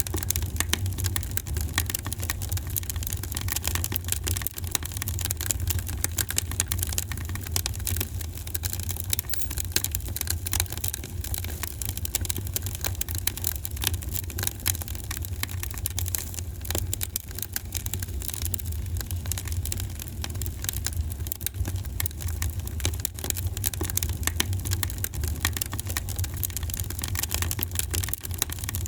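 Wood fire crackling in a fireplace: a dense, constant patter of small pops and snaps over a steady low rumble.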